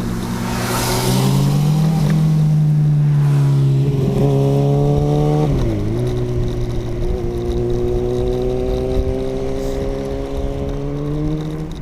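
Electric scooter's motor whining under way, its pitch climbing as it speeds up, dipping sharply about halfway through and climbing again. Wind rush on the microphone in the first couple of seconds.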